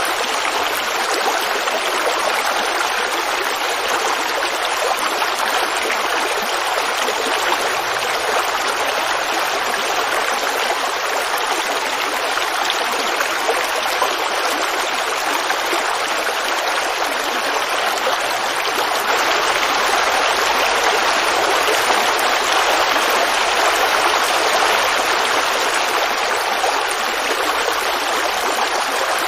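Creek water running and babbling over stones in a steady rush, swelling slightly about two-thirds of the way through.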